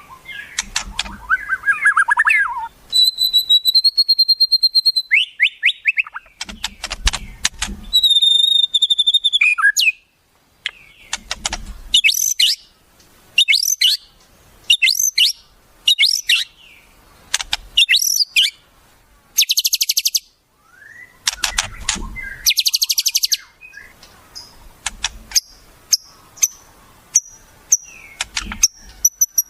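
Recorded wild songbird calls in a varied sequence: sharp chips, short falling notes, two long level whistles, and two dense high buzzy trills past the middle.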